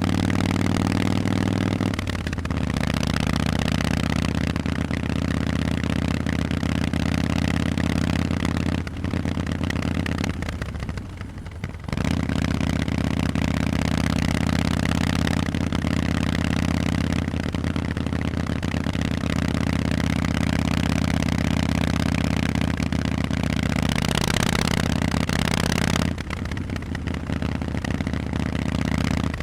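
Harley-Davidson Forty-Eight's air-cooled 1200 cc V-twin running through Vance & Hines exhausts while riding, mostly at a steady note. The note drops briefly about two seconds in, falls away for a few seconds from about nine seconds as the throttle comes off, then picks back up, and drops again near the end.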